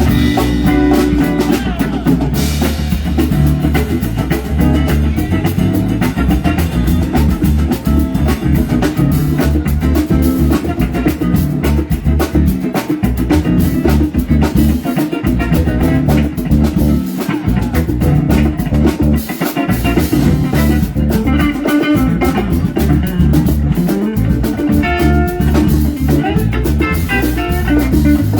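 Live band playing an instrumental passage: guitar over bass and a drum kit keeping a steady beat.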